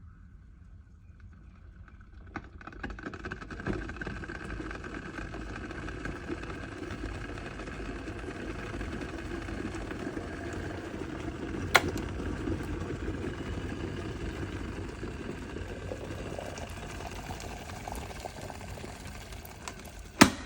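Electric kettle heating water: a steady low rumble with a hiss that builds up about two and a half seconds in as the water nears the boil. A sharp click comes midway and another near the end.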